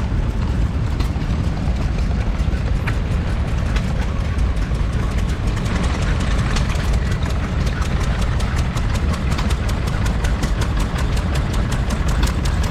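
Vintage stationary engine running steadily, with a fast, even ticking that becomes more prominent about halfway through.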